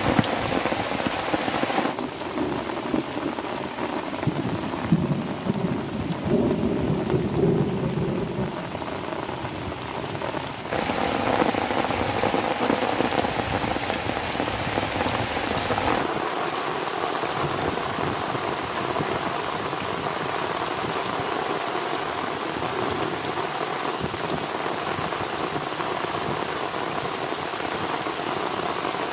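Heavy rain falling steadily, with a low rumble of thunder building and fading in the first third. The sound changes abruptly a few times.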